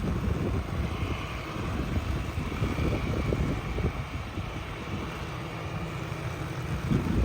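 Wind buffeting the microphone in uneven gusts, with a faint steady higher-pitched hum underneath.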